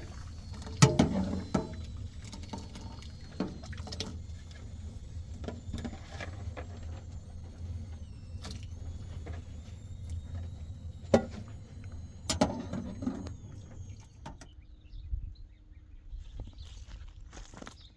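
Scattered sharp knocks and clicks over a steady low rumble, the loudest about a second in and again after about 11 and 12 seconds. The knocks thin out in the last few seconds.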